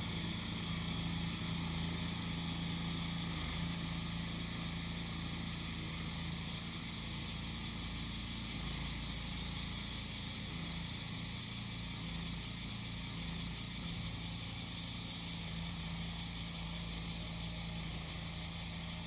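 A grass-cutting machine's engine running at a steady speed, with a chorus of cicadas shrilling in a fast, pulsing drone high above it.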